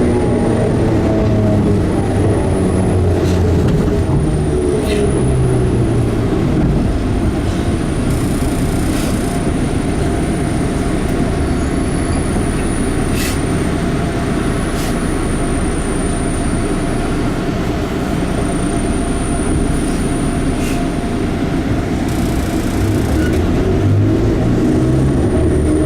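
Enshu Railway 30 series electric train heard from inside the car while running: a steady rumble of wheels on rail, with occasional sharp clicks of rail joints. A motor whine falls in pitch over the first couple of seconds, and a low motor hum returns near the end.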